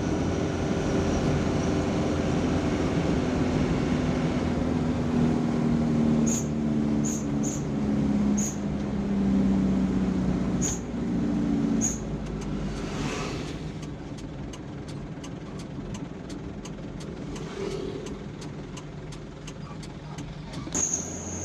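Truck engine running under load, its pitch climbing steadily, then falling away about twelve seconds in with a short hiss. A steady run of faint ticks follows to the end.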